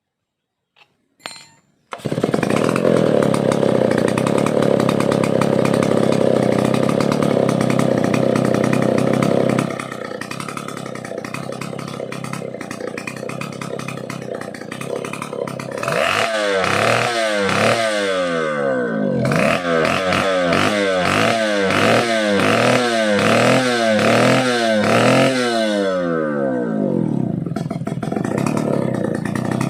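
Vintage Stihl 070AV two-stroke chainsaw engine coming in suddenly a couple of seconds in and running at a steady high speed. It drops back to idle after several seconds, is then revved up and down over and over for about ten seconds, and settles back to idle near the end.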